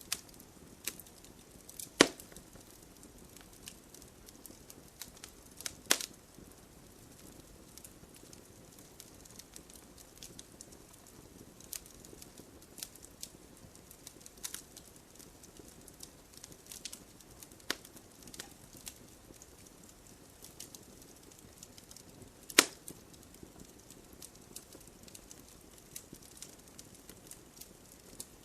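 Wood fire crackling and popping: scattered sharp snaps over a soft steady hiss, with three louder pops about 2, 6 and 22 seconds in.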